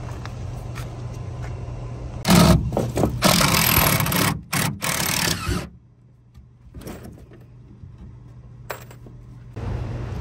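A motor running with a steady low hum. About two seconds in, a loud rushing noise takes over for around three seconds, breaking off abruptly, before a quieter stretch and the hum again near the end.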